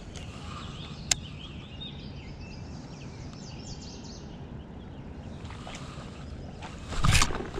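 Birds chirping over a steady low outdoor rumble, with a single sharp click about a second in and a short, loud rush of noise near the end.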